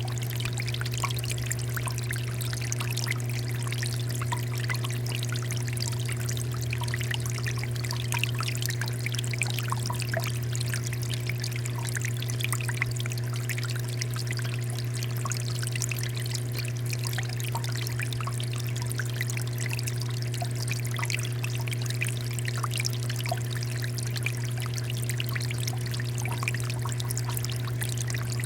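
Water fountain flowing and splashing steadily, a dense patter of small trickles and drips, over a steady low hum.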